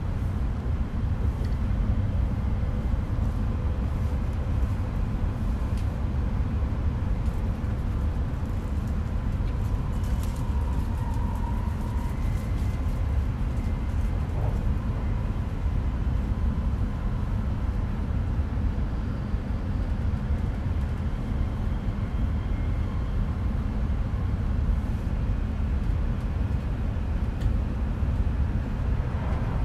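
Steady low rumble of an E5 series Shinkansen running at speed, heard from inside the passenger cabin, with a faint brief whine about ten seconds in.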